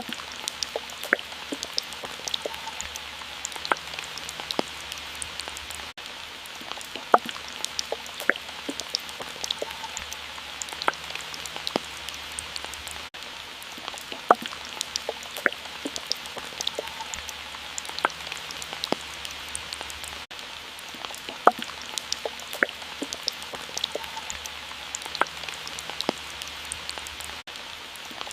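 Water drops falling and dripping irregularly, many separate sharp drips over a steady soft hiss of water, like light rain.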